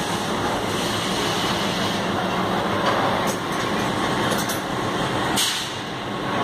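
Passenger train coaches moving slowly through a station: a steady rumble of wheels on rails, with a few short sharp metallic sounds about three, four and five seconds in.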